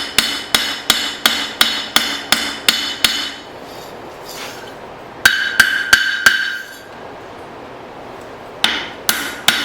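Blacksmith's hand hammer forging file steel on an anvil. A steady run of ringing blows at about three a second, a pause, a quick group of four blows, another pause, then more blows near the end.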